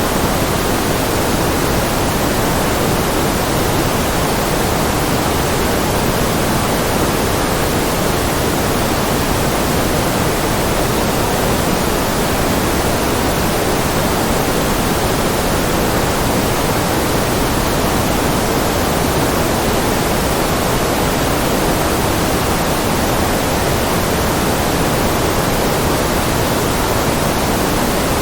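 Steady synthetic white noise, an even hiss with no change or break. Its weight sits in the lower middle, closer to pink noise than a bright hiss.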